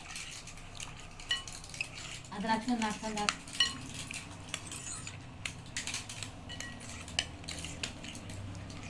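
A spoon stirring fruit salad in a glass bowl: irregular scraping and tapping against the bowl, with a few clear ringing clinks.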